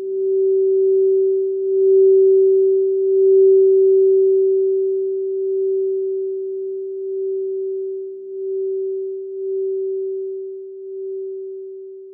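Singing bowl tuned to G sounding one steady ringing tone. It swells over the first couple of seconds, wavers in a slow pulse, and then slowly dies away near the end. A faint low pulsing hum lies under it for the first several seconds.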